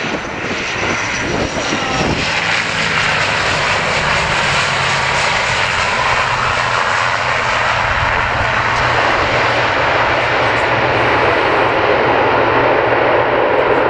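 Airliner's engines running loud and steady, growing slowly louder as the aircraft draws closer.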